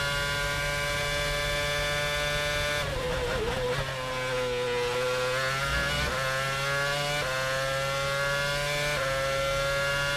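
Race car engine running at high revs with a steady, high-pitched whine. The pitch sags and wavers about three to four seconds in, then climbs again in a few sudden steps.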